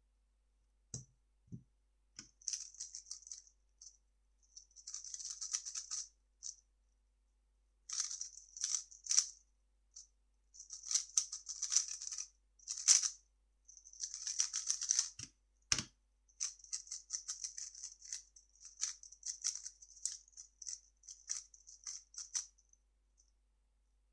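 A 3x3 speed cube being turned fast, giving bursts of rapid plastic clicking and clacking with short pauses between the sequences. There are a few soft knocks about a second in and again near the middle.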